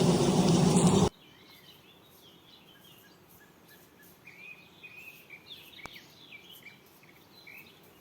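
A loud, noisy hum stops abruptly about a second in. Then small birds chirp and twitter faintly on and off.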